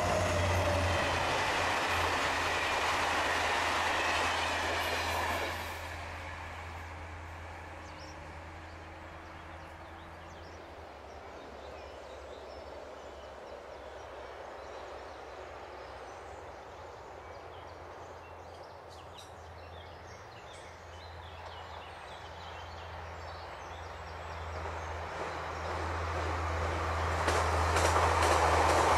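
Loco-hauled Corail passenger coaches rolling past on the rails, cut off sharply about five seconds in. After a quiet stretch, an AGC regional multiple-unit train approaches and grows steadily louder over the last several seconds.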